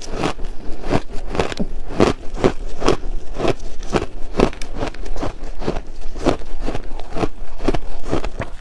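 Chunks of ice being bitten and chewed close to the microphone, a steady run of sharp crunches about two a second.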